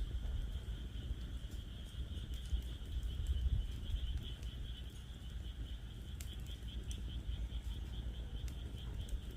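Wood fire in a fire pit crackling with sparse, sharp pops, over a steady high-pitched pulsing chorus of calling frogs and a low rumble underneath.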